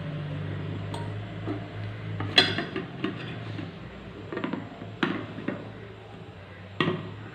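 Dishes and a cooking pan clinking and knocking, about seven scattered strikes with the loudest about two and a half seconds in and near the end, as a steamed cake is turned out of its pan onto a plate. A steady low hum runs underneath.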